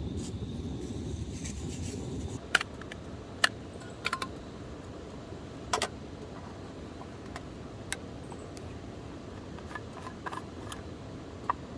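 Campfire burning, with the wood cracking in sharp, irregular pops about every one to two seconds over a low rushing noise that fades after the first couple of seconds.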